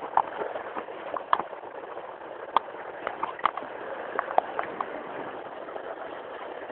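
Steady hiss of rain with scattered sharp clicks and knocks.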